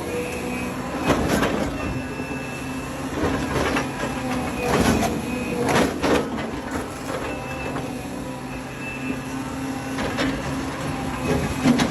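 Heavy excavator's engine running steadily, with a higher thin whine and several sharp metallic clanks, the loudest about a second in, around five to six seconds, and near the end.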